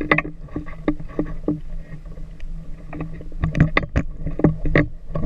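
Irregular knocks and rattles, thickest near the end, over a steady low hum.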